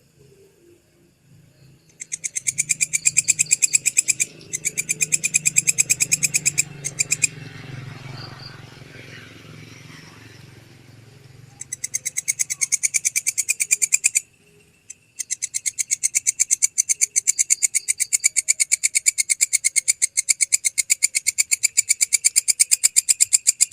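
Belalang kekek katydid calling: long trains of rapid, high-pitched, rasping pulses in several bouts, broken by short pauses. A faint low rumble runs underneath in the first half.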